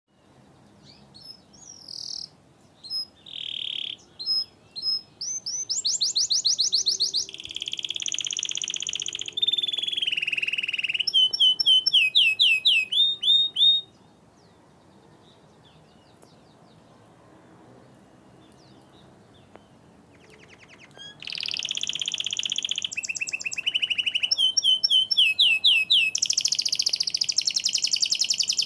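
Domestic canary singing: rapid trills and rolling runs of quickly repeated notes. The song stops for several seconds midway, then starts again.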